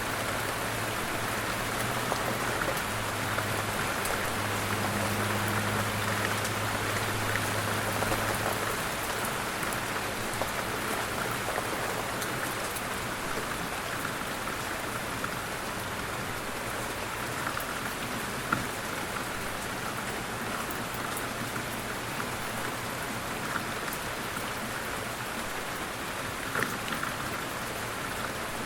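Steady light rain falling, an even patter of raindrops with a few louder single drops now and then. A faint low hum runs under it for the first several seconds.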